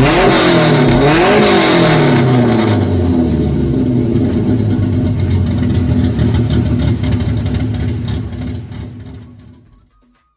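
Car engine revving in several rising and falling sweeps, then running on steadily and fading out near the end.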